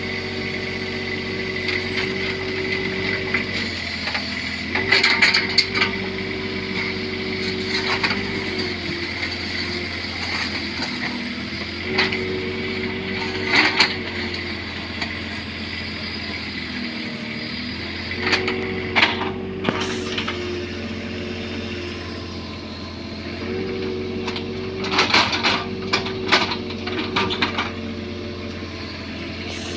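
Bobcat 322 mini excavator's diesel engine running steadily, its note shifting every few seconds as the hydraulics take up and release load, with repeated metal clanks and scrapes from the working gear.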